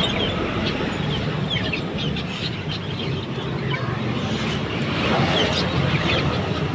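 Many caged songbirds chirping in short, scattered calls over a steady low hum of background noise.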